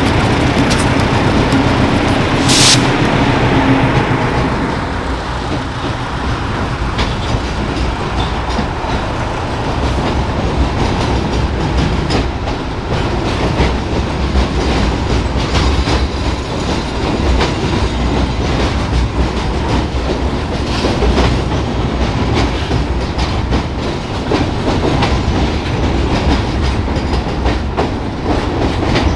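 Pickens Railroad train led by GE U18B diesel locomotives rolling past. The locomotives' 8-cylinder GE 7FDL engines run at first, with a brief sharp high sound about two and a half seconds in. After that come the railcars, their wheels clacking steadily over the rail joints.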